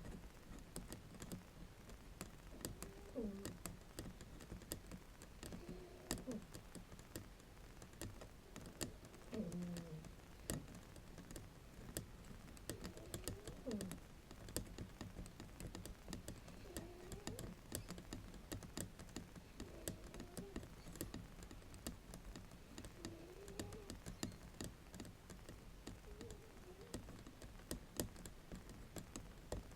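Bamboo mat being tapped and scratched, a steady run of quick dry clicks. A faint wavering tone recurs every few seconds underneath.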